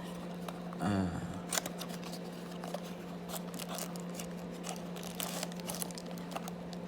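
Scattered light clicks and rustles as a small toy's packaging is opened and handled by hand.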